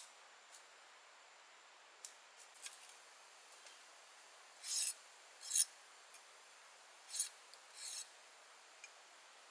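Four short scraping strokes in two pairs, a blade or tool cut or scraped against something, preceded by a few faint clicks.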